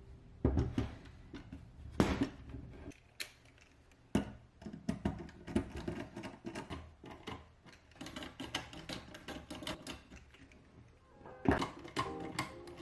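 Irregular clicks, clacks and knocks of hard parts as an airsoft rifle is handled, with a few louder knocks among them.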